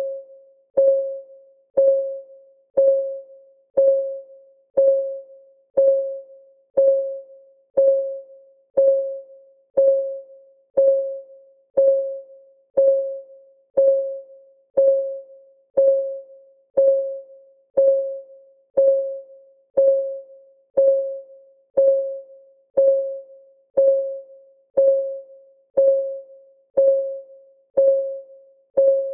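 Clock ticking sound of a countdown timer: an even tick once a second, each a short, slightly pitched click that dies away quickly.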